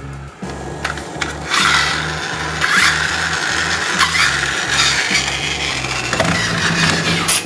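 A rough, rasping scraping sound that comes in about a second and a half in and runs to near the end, with a few short clicks, over background music with a repeating bass line.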